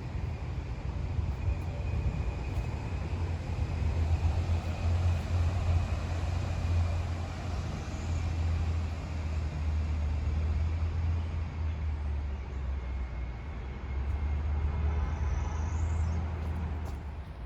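Outdoor ambience dominated by a steady low rumble, like distant city traffic, with faint high chirps now and then.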